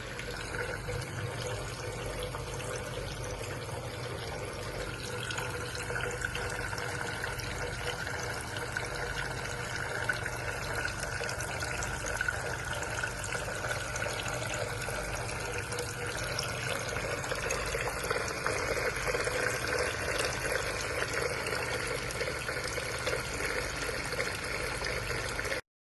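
Homemade tabletop water fountain running, water trickling and splashing steadily; it cuts off suddenly near the end.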